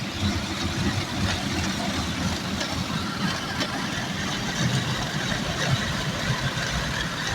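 Automatic car wash's rotating brushes scrubbing over the car, heard from inside the cabin: a steady churning noise, strongest low down, with a spray-like hiss above it.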